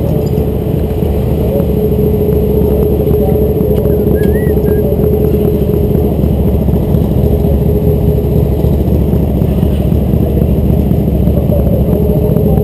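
Motorcycle engine idling steadily, close to the microphone.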